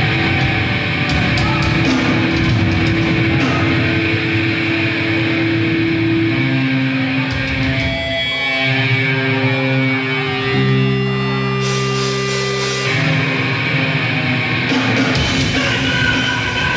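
Grindcore band playing live: loud distorted electric guitar holding notes that change pitch in steps, with cymbal hits.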